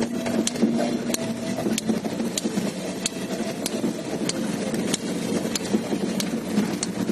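Car running on the move, with a steady hum and a sharp tick repeating evenly about every two-thirds of a second.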